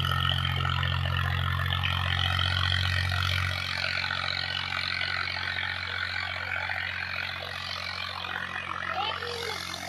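Diesel tractor engine running steady; its low hum is strong for the first three and a half seconds and then drops in strength.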